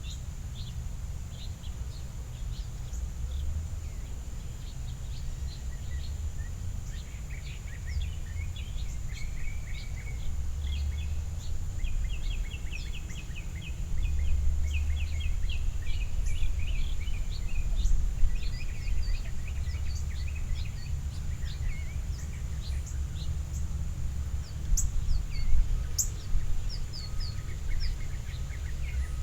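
Small backyard songbirds calling, many short sharp chips scattered throughout and a quick twittering run in the middle, over a steady low rumble and a faint steady high tone.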